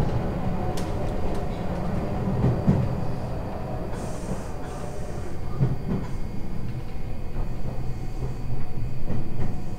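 Iyotetsu Gunchu Line electric commuter train running along the track, heard from the driver's cab: a steady low rumble of wheels and motors with a few sharp clicks.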